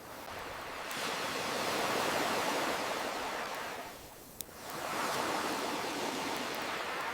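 Ocean surf washing in and out: a wave swells and recedes, dips into a lull a little past the middle, then a new wave builds. A single sharp campfire pop sounds in the lull, with a few faint crackles.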